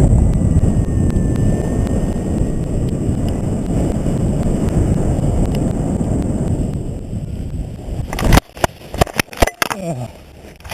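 Wind buffeting the microphone in a steady low rumble while flying a paraglider through rough air. The rumble dies away, and near the end comes a quick run of sharp knocks and bumps.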